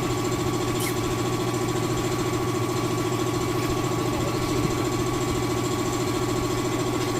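A motor running steadily with an even, rapid hum.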